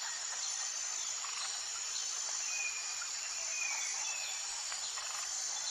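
Steady outdoor insect chirring, with a few short faint chirps about halfway through.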